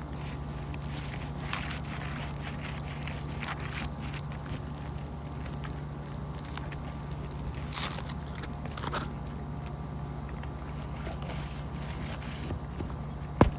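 Scattered scraping and prying as old, brittle roof shingles are separated and their nails worked loose, with one sharp snap near the end, over a steady low hum.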